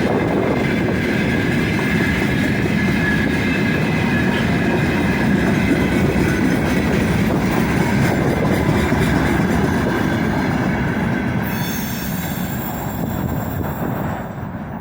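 Freight wagons rolling past on the rails with a steady rumble and clatter of wheels, and a high squeal from the wheels. The sound fades over the last few seconds.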